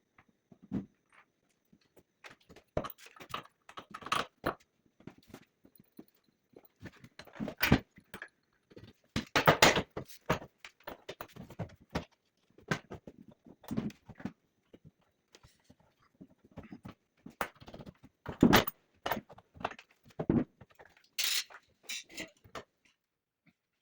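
Irregular knocks, clicks and clatter, spread unevenly, with a short hissing scrape near the end.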